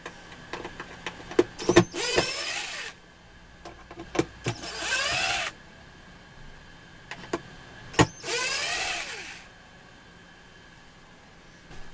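Handheld power drill/driver running in three short bursts of about a second each, its motor whine gliding in pitch as it spins up and down, with clicks and knocks of handling between bursts.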